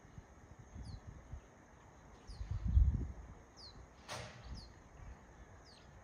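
A small bird gives short, high chirps that slide downward, repeated about every second or so. Irregular low rumbles on the microphone are the loudest sound, peaking near the middle, and a brief hiss of noise comes about four seconds in.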